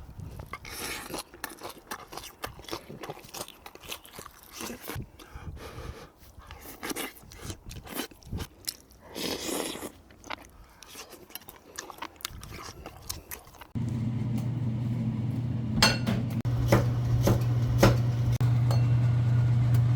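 Close-miked eating: irregular crunching, chewing and small clicks of food being bitten. About two-thirds of the way in this cuts off suddenly and gives way to a louder steady low hum with a few sharp clicks.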